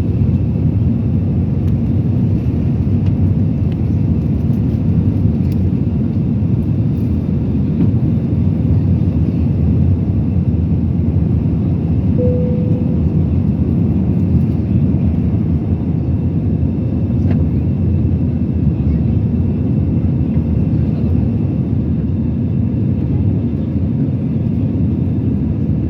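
Steady low rumble of an Airbus A320-216's CFM56 turbofan engines and rushing air, heard inside the cabin as the airliner climbs after takeoff. A short steady tone sounds briefly about halfway through.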